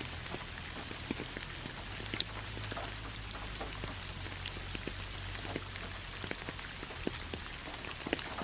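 Rain falling on fallen leaves: a steady patter of many individual drops ticking irregularly on the leaf litter.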